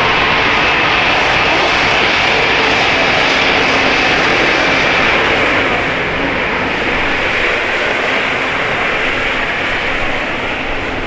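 Jet airliner engines running at high power: a loud, steady rush of noise with a high whine, easing slightly after about six seconds.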